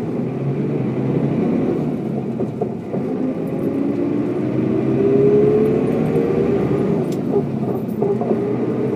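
Mercedes-Benz O407 bus's diesel engine pulling under load. Its pitch rises steadily for a few seconds as the bus accelerates, drops about two-thirds of the way through as it shifts gear, then begins rising again.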